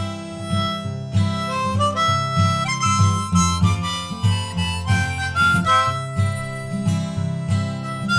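Instrumental folk music: a harmonica plays a melody of held notes that step up and down over guitar accompaniment.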